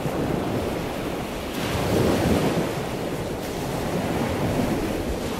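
Steady rushing water noise, growing a little louder about two seconds in.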